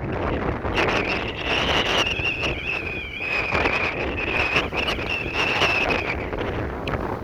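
Strong gusty wind buffeting the microphone, with a high steady whistle holding through most of it.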